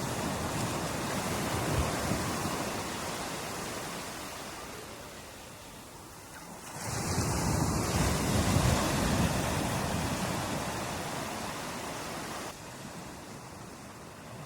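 Ocean waves surging onto a beach. One wave's wash fades out, and about seven seconds in the next wave breaks and rushes in, then slowly recedes. Near the end the level drops suddenly.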